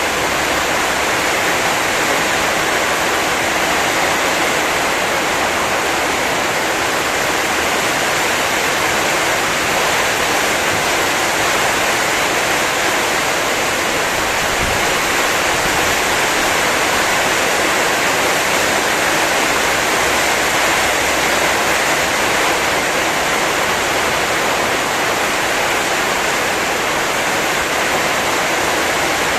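Heavy rain pouring down in a storm, a dense steady hiss without a break.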